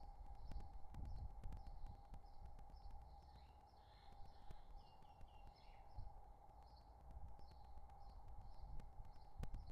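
Faint bird chirps repeating about twice a second, with a brief run of lower chirps around the middle, over a steady electrical hum and scattered clicks and low rumbles from the nest-box webcam's microphone.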